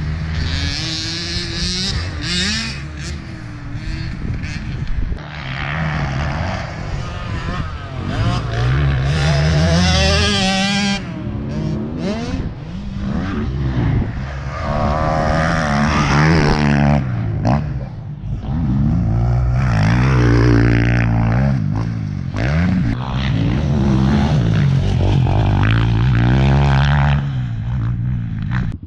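Motocross dirt bike engine revving hard and easing off again and again, its pitch climbing and dropping repeatedly as it is ridden through the gears.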